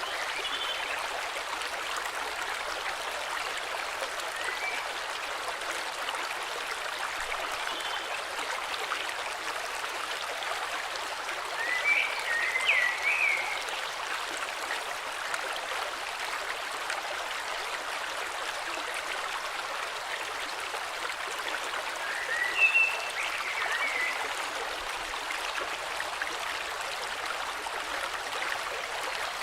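Steady rushing of a flowing river, with birds chirping briefly a few times, most clearly a little before halfway and again about three-quarters through.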